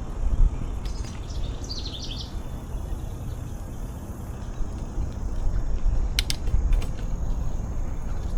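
Low rumble of wind and motion while riding a bicycle along a trail, with a bird chirping briefly about a second in and a few sharp clicks about six seconds in.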